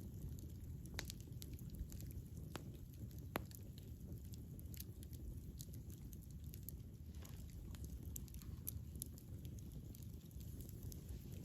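Wood fire crackling: a steady low rumble of burning with scattered sharp pops and fine ticks, the loudest pop about three and a half seconds in.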